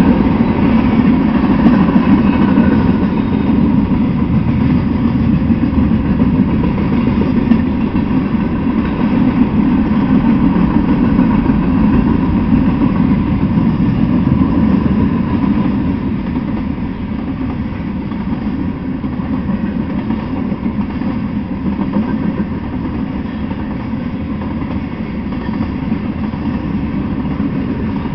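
A freight train's cars rolling past, a steady rumble of steel wheels on the rails that eases a little about halfway through.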